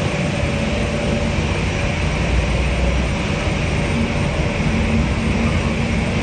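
Jet airliner engines running: a steady rumble and hiss with a faint held whine.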